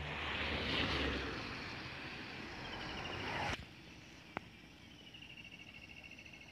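Steady hiss of heavy rain with a low rumble in the first second, cutting off sharply a little past halfway. Then a quieter stretch with one click and an insect trilling in a fast, even pulse near the end.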